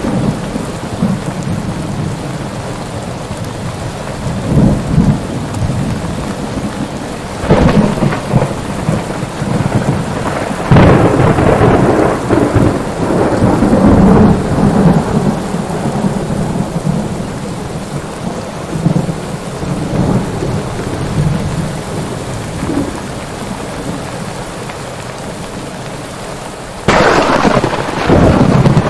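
Thunderstorm: steady heavy rain with rolling thunder, sharp cracks about seven and eleven seconds in and again near the end, each followed by a long rumble.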